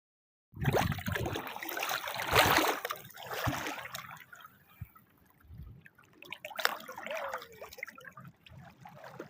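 Water splashing and trickling, loudest in the first few seconds and then going on more quietly and unevenly.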